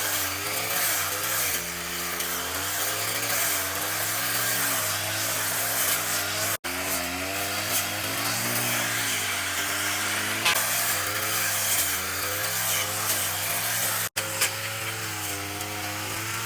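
Small petrol engine of a grass cutter running under load, its pitch rising and falling as it cuts. The sound cuts out for an instant twice.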